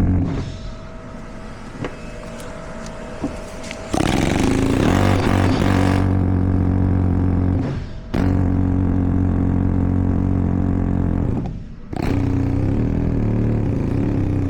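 Pneumatic air hammer running in three long bursts of about four seconds each, with short pauses between them, working on rust-seized splines in a differential to free the part.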